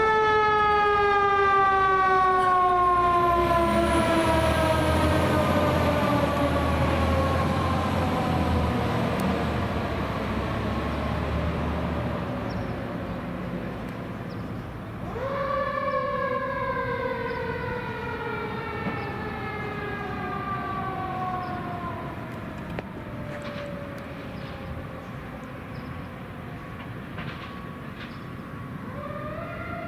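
Fire engine siren sounding in long swells: each time its pitch jumps up quickly, then slides slowly down over a dozen seconds, three times. A heavy truck engine rumbles low through the first twelve seconds, and the whole sound slowly fades.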